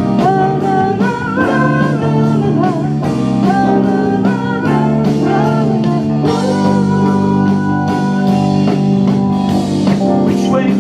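Live band music: electric guitar, bass and drum kit playing a bluesy rock song, with a singing voice over it.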